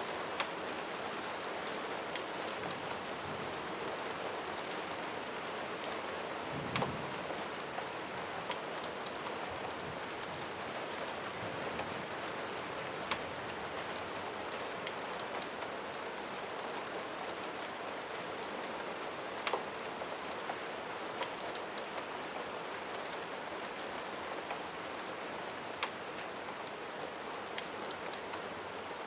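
Steady rain falling, with a handful of single sharp crackles or pops scattered through it.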